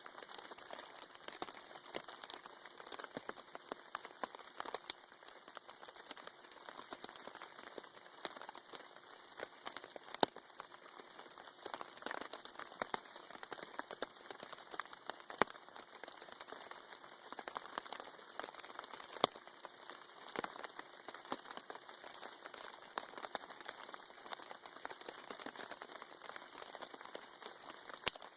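Rain pattering steadily on a tarp overhead, with scattered sharp clicks and snaps at irregular moments.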